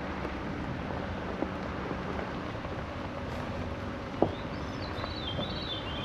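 Steady outdoor background noise with two sharp clicks, the second one the loudest, and a short warbling bird call near the end.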